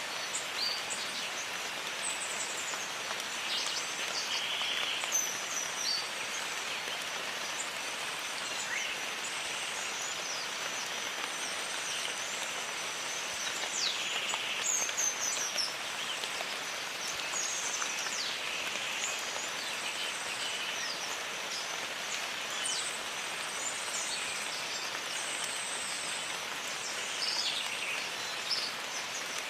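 Steady rain falling in a jungle, with birds calling at intervals over it in short high chirps and whistles, and a thin steady high-pitched tone throughout.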